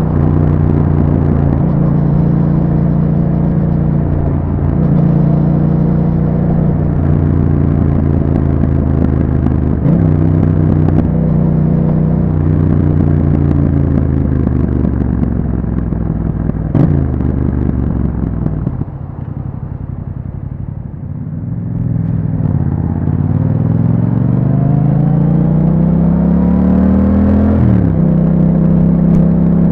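Yamaha MT-07 parallel-twin engine through an Akrapovic exhaust, ridden at a steady pace with small throttle changes. About two-thirds of the way in the throttle closes and the engine goes quieter, then it pulls hard with a steadily rising pitch and drops sharply at an upshift near the end.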